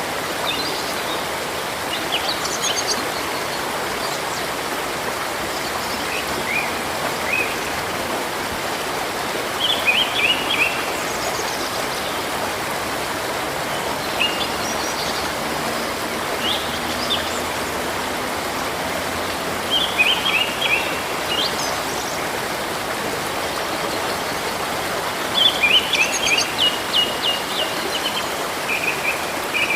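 Flowing river water running steadily, with songbirds chirping over it in short bursts every few seconds. A longer, quicker run of chirps comes near the end.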